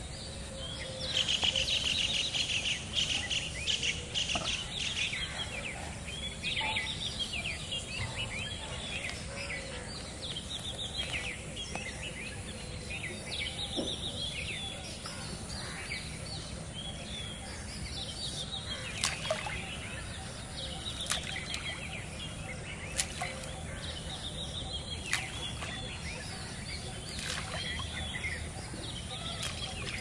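Many birds chirping and calling over one another, densest and loudest in the first few seconds, with a few sharp clicks in the second half.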